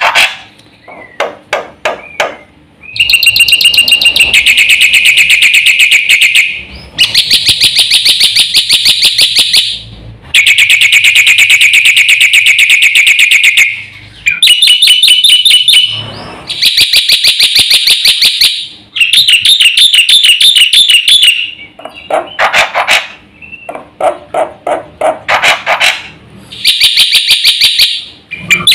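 Black-winged myna (jalak putih) singing loudly in bouts of a few seconds each. Each bout is a rapid run of harsh, repeated notes, and short pauses fall between the bouts.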